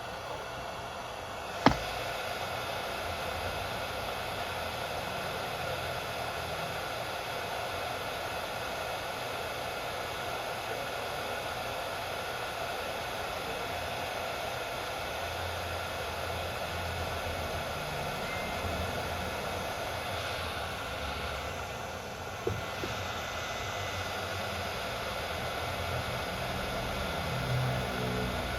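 Steady hiss of rushing air or noise at an even level, with one sharp click about two seconds in and a fainter knock a little past twenty seconds.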